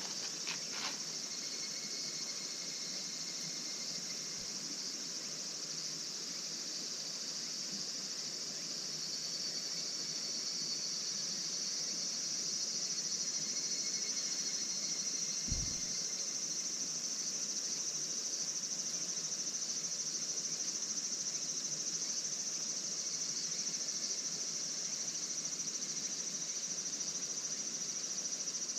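Steady, high-pitched chorus of insects chirring without a break. A few faint clicks come right at the start, and a single low thump about halfway through.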